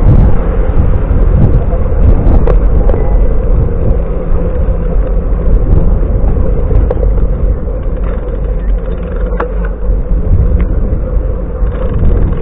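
Steady wind rumble on a camera microphone riding along on a bicycle, with a few short clicks.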